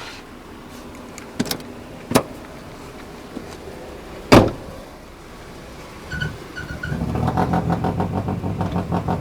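A few clicks and one loud thump, then from about six seconds in a car engine running with a steady pulsing rumble, three short beeps sounding as it begins.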